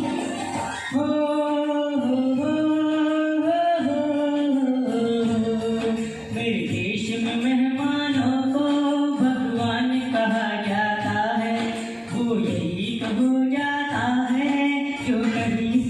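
A solo singer holding long, gliding melodic notes with no clear words, a wordless vocal passage within a folk song.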